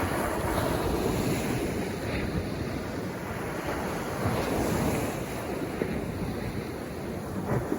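Sea waves breaking and washing on the shore in steady surges, with wind buffeting the microphone.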